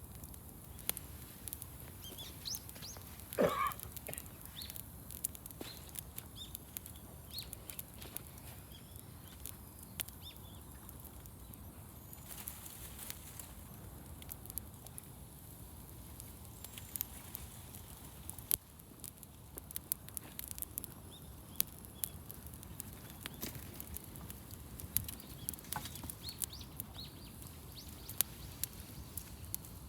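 Wood campfire crackling, with many scattered sharp pops over a steady low rustle. A few faint bird chirps, and one short, louder sound about three and a half seconds in.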